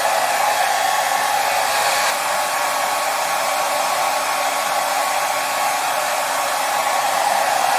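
Hair dryer running steadily: an even, unbroken blowing rush with a faint motor whine in it.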